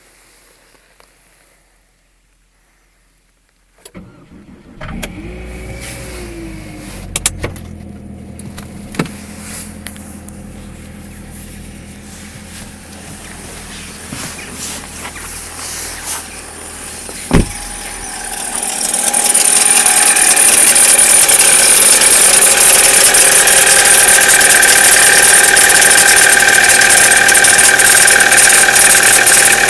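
Chevrolet Cruze engine cold-started about two-thirds of the way in, then running loud and steady with a high metallic ringing knock, a sound that on this car fades after about a minute of warm-up and is absent at 0 °C and above. Before the start, a low hum with a few sharp clicks.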